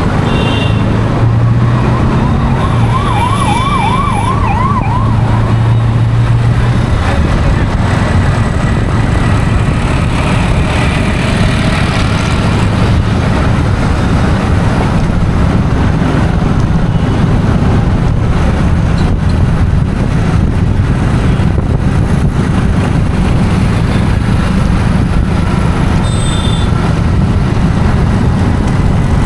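Steady road-traffic noise, with a warbling siren-like tone rising and falling quickly for about three seconds near the start.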